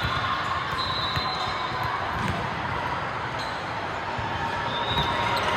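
Basketball game in a gym: a ball bouncing on the court with a few low thuds, brief high squeaks and a steady background murmur of voices.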